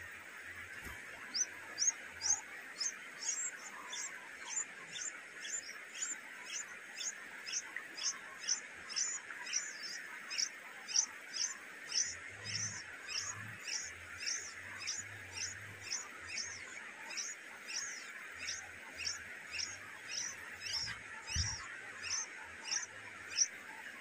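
A bird's short, high chirp repeated steadily about twice a second, over a steady background hiss.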